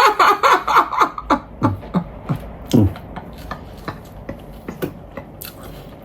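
Laughter: a quick run of laughing bursts, then a few separate falling breaths of laughter that die away about halfway through, leaving a few faint clicks.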